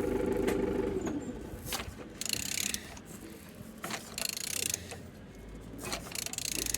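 A ratchet wrench clicking in three short bursts as the crankshaft of a TU3JP four-cylinder petrol engine is turned over by hand; the engine turns freely. A steady hum dies away about a second in.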